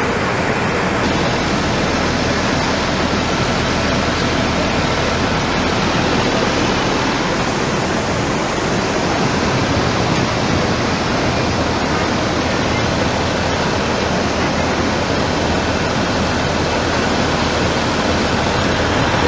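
Loud, steady rush of fast-moving floodwater, an even roar of water with no breaks.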